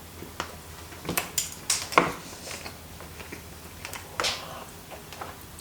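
Cutlery clicking and scraping against a dish of noodles: a scattering of short, sharp clicks, the loudest about two seconds in.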